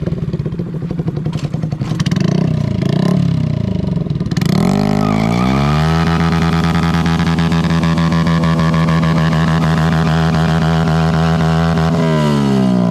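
Honda Grom's 125cc single-cylinder engine being revved: uneven blips at first, then a steep climb to high revs held steady for about six seconds, and a drop back down near the end.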